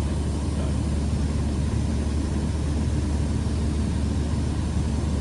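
Steady drone of a Cessna 172 Skyhawk's piston engine and propeller, with an even hiss over it.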